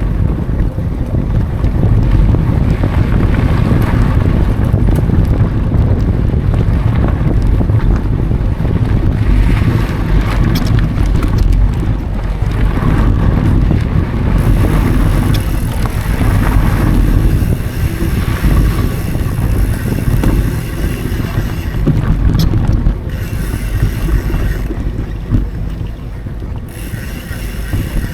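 Wind buffeting an action camera's microphone during a fast mountain bike ride on dry dirt singletrack, over the rumble of tyres and scattered clicks and rattles from the bike.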